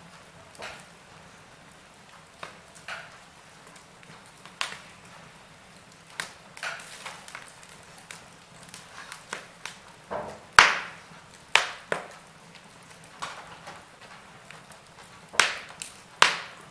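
Wood fire burning in a fireplace: irregular crackles and sharp pops of burning logs over a faint hiss, with the loudest pops bunched in the second half.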